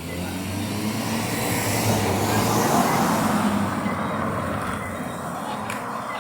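A motor vehicle passing close by, its engine and tyre noise rising to a peak about halfway through and then fading away.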